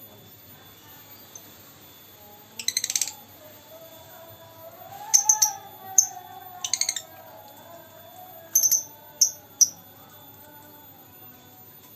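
Lovebird giving short, shrill chirps in about seven scattered bursts, each a quick rattle of clicks lasting well under half a second.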